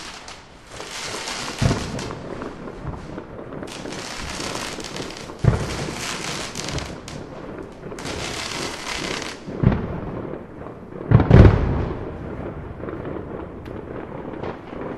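Fireworks going off: four deep bangs, the loudest about eleven seconds in, with long stretches of crackling between them.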